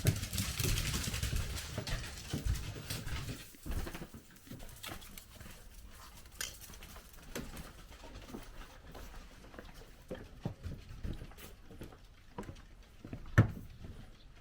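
Miniature dachshunds' claws pattering and clicking on the floor as they move about. A rustling in the first two seconds, then scattered light taps, with one sharper knock near the end.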